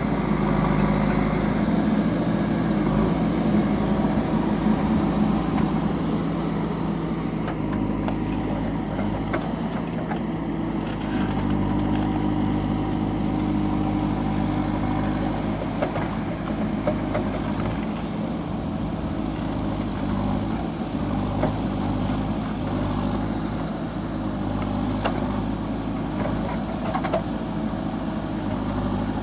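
The diesel engine of a JCB 4CX backhoe loader running steadily, a little louder for the first few seconds, with scattered short knocks over it.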